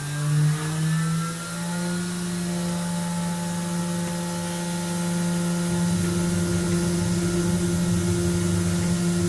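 Tormach PCNC 440 milling machine spindle spinning up, its whine rising in pitch over the first two seconds and then holding steady at about 10,000 RPM. A rougher noise joins about six seconds in.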